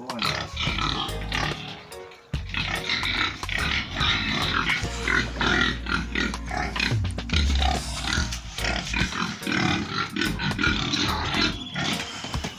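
Pigs making their noises, heard over background music.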